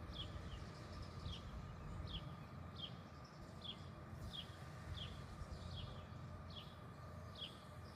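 Faint, short chirps from a small bird, each a quick falling note, repeated about every half second to second over a low background rumble.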